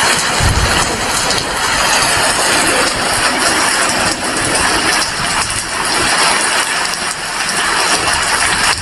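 Heavy rain falling steadily, a dense even hiss, with a brief low thump about half a second in.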